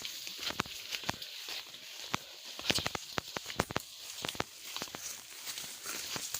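Footsteps crunching through dry leaves and undergrowth, with many irregular crackles and snaps, over a steady high hiss.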